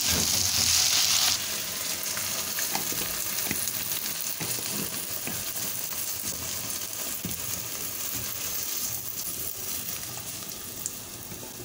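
Vegetables sizzling in oil in a non-stick kadai, stirred with a spatula, with a few small scrapes and knocks. The sizzle is loudest for about the first second, then settles to a softer, steady hiss that slowly fades.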